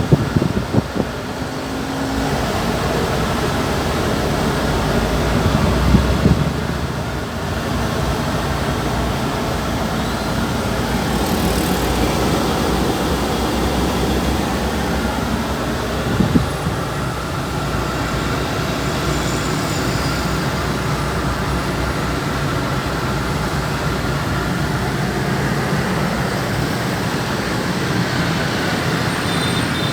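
Steady running noise of a vehicle under way, engine and road noise together, swelling briefly about six seconds in; likely the DFSK Siam Truck's 1,051 cc four-cylinder petrol engine.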